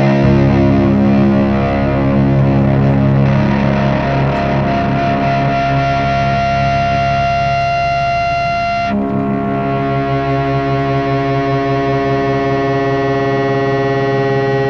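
Heavy rock band playing distorted electric guitar, holding long sustained chords, with a change of chord about nine seconds in.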